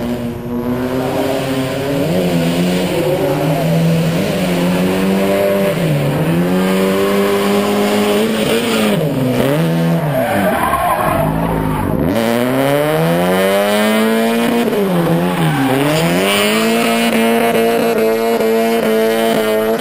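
Drift car's engine held high in the revs, its pitch dipping and climbing back several times as the throttle is lifted and reapplied, deepest about twelve seconds in, with tyres squealing as the car slides sideways through the corner.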